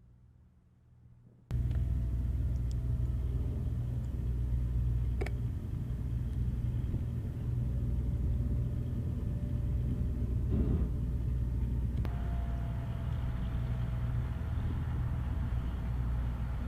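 Near silence for about a second and a half, then a motor vehicle's engine starts being heard and runs with a steady low rumble.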